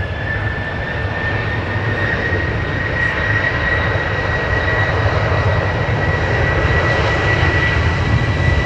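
Jet engines of a Boeing 737-800 (CFM56-7B turbofans) running at power, getting steadily louder, with a high whine that rises slightly in pitch over a broad rumble.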